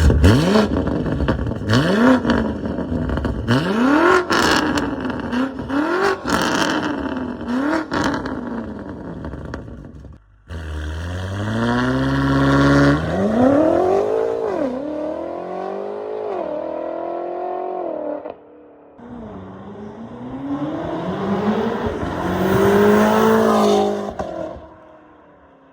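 Car with an aftermarket exhaust revving again and again, the engine note climbing and dropping with each blip. Sharp cracks sound among the revs in the first part. The sound breaks off abruptly twice and picks up again with more revving.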